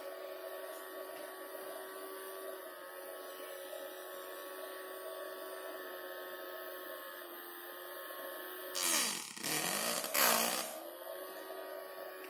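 The small battery-powered DC motor and fan of a homemade bottle vacuum cleaner running with a steady whine. About nine seconds in come two loud rushing bursts, during which the motor's pitch drops sharply and then climbs back.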